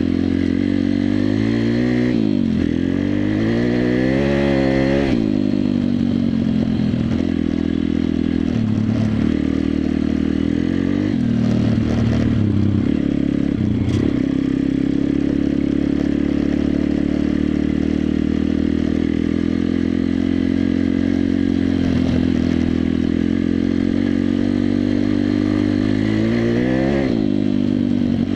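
Pit bike's small single-cylinder four-stroke engine being ridden: it revs up and down a few seconds in, runs fairly steadily through the middle with brief throttle changes, and revs up again near the end.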